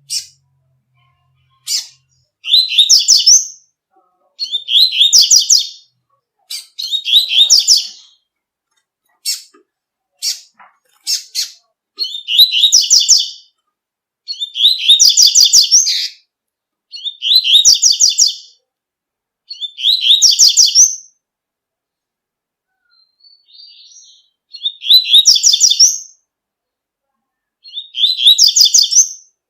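Double-collared seedeater (coleiro) singing its 'tui-tui' song: loud phrases of rapid repeated notes, each lasting a second or two and coming about every two to three seconds, with short single calls between them.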